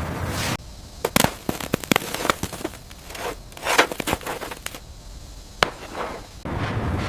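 A steady noise cuts off about half a second in, giving way to several seconds of irregular sharp cracks and snaps; the steady noise returns near the end.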